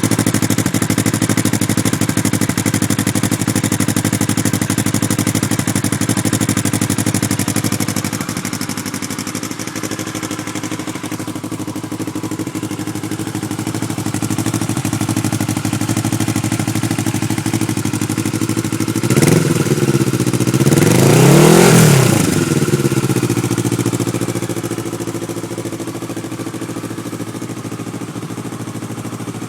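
Kawasaki ER-6f (Ninja 650R) parallel-twin engine idling steadily through twin Ixil exhaust silencers with their dB killers fitted. About two-thirds of the way in the throttle is blipped once, then revved, the pitch rising and falling back to idle.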